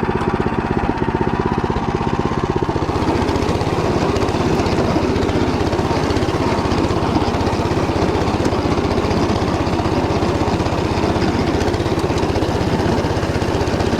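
Motor Sich walk-behind tractor's engine running steadily under load as its rotary tiller cutter churns through barley stubble and soil. A rougher, noisier churning comes in about three seconds in.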